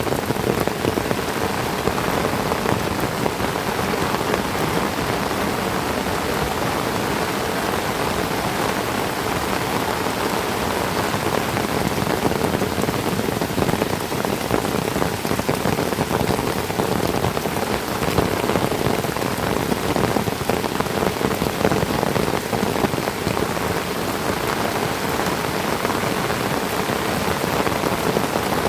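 Heavy tropical rain falling steadily: an even hiss made of countless small drop impacts on surfaces.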